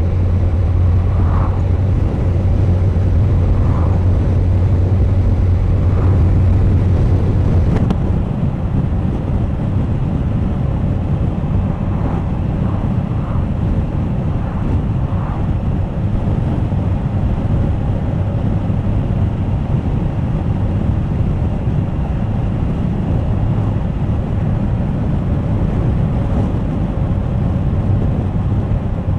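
Suzuki GSX1250FA's inline-four engine running under way, mixed with wind noise on the camera microphone. About eight seconds in, the steady engine note drops back and the even rush of wind and road noise takes over.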